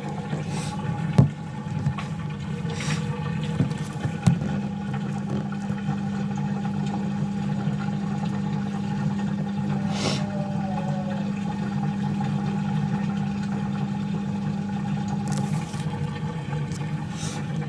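Hotpoint washing machine in its spin cycle, running with a steady hum while it drains. A few sharp knocks come in the first few seconds.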